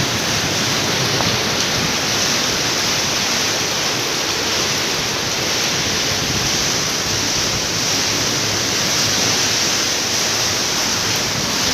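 Heavy rain pouring down, a dense, steady rushing hiss that holds level throughout.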